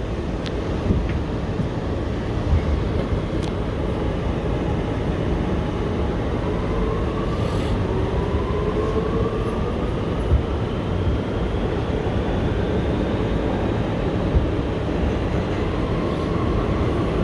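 R211T subway car running between stations, heard from inside the car: a steady rumble of wheels on rail with a few sharp knocks from the track. Partway through, a whine rises in pitch as the train picks up speed, and another rises near the end.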